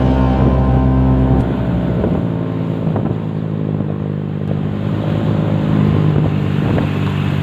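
Motor vehicle engines running steadily. A deep bass layer cuts off about a second and a half in.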